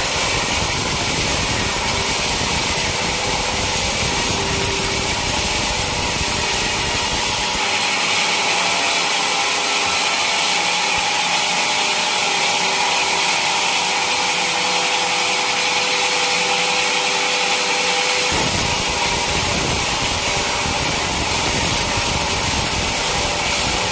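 Sawmill saw cutting through a teak log, a steady sawing noise throughout. The low rumble underneath drops away abruptly about eight seconds in and returns about ten seconds later.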